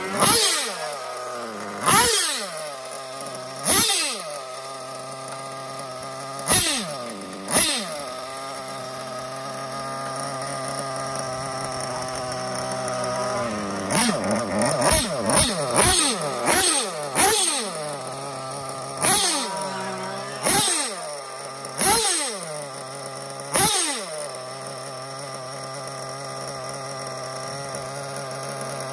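Nova X5B nitro engine in a Kyosho MP10 1/8-scale buggy, fitted with an EFRA 2182 tuned pipe and running on its first start: it idles steadily, broken by about fifteen quick throttle blips that rev it high and let it drop straight back, with a run of closely spaced blips midway.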